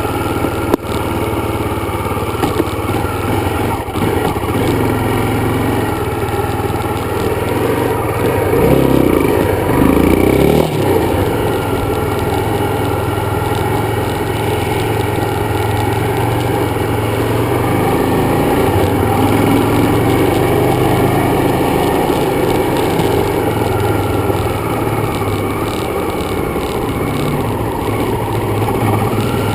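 Dirt bike engine running steadily, with a brief rise and fall in revs about eight to eleven seconds in.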